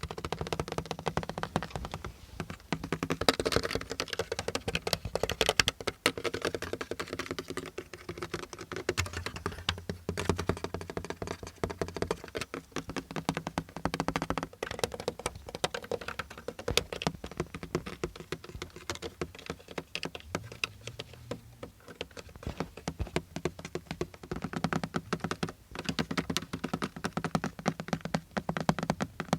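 Fast, continuous tapping on the surfaces of a car, many quick taps a second with a hollow ring to them and short lulls between runs.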